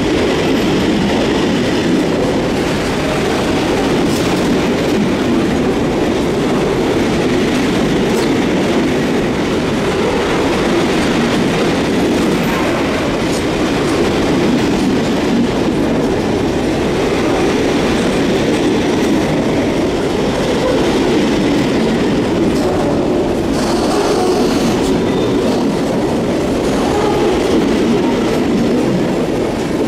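A long freight train of bogie hopper wagons passing at close range: the steady running noise of steel wheels on the rails, holding an even level.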